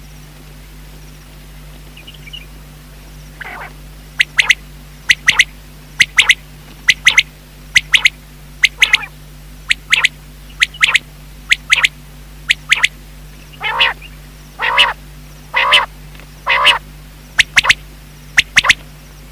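Common quail calling: a run of short, sharp notes, mostly in pairs about once a second, with four longer, lower calls near the middle of the run.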